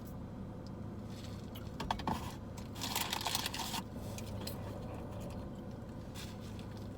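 Several short bursts of crinkling and rustling from a paper fast-food wrapper or bag being handled, the longest lasting about a second, over a steady low hum.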